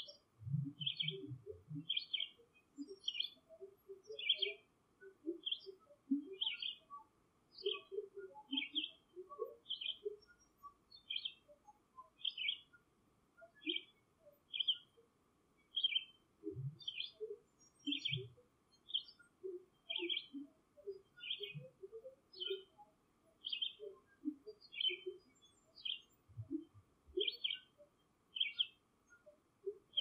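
A bird repeating a short, high chirp at a steady pace, about three every two seconds. Soft low sounds come here and there beneath it, mostly in the first two seconds.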